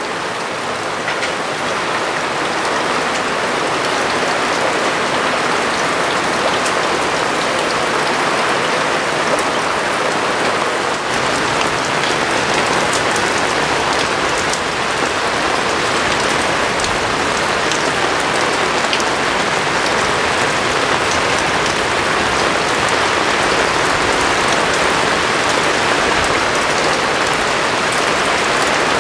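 Heavy, steady rain from a passing tropical storm, a dense patter of drops falling on the sailboat's canvas cockpit enclosure and deck.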